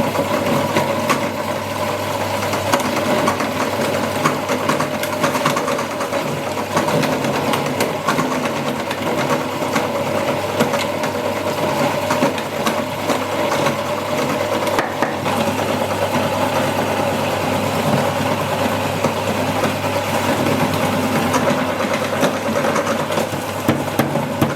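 Electric meat grinder running steadily while grinding chicken: a constant motor hum with a stream of small clicks and crackles.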